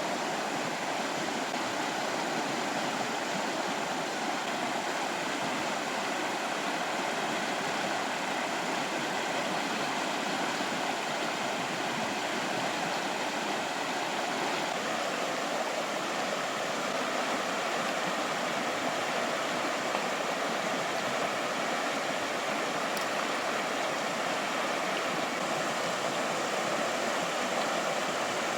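Fast-flowing river water rushing in a steady, unbroken wash.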